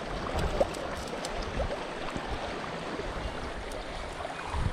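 Steady rush of a flowing river, with a few dull low bumps.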